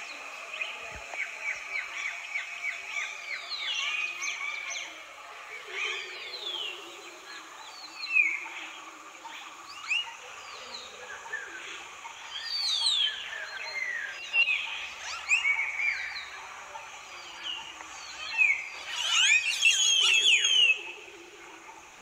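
Several forest birds singing and calling: a quick run of repeated chirps in the first few seconds, then scattered short sweeping whistled notes, and a dense burst of overlapping calls near the end, over a faint steady high drone.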